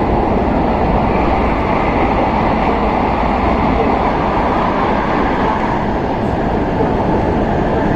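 Steady running noise of an N700S Shinkansen train, heard inside the passenger cabin: an even rumble and rush from wheels, track and air.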